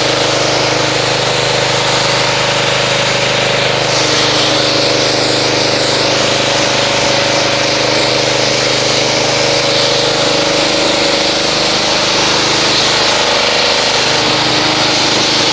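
Pressure washer running steadily, its motor droning under the hiss of the water jet, rinsing car-wash foam off a car.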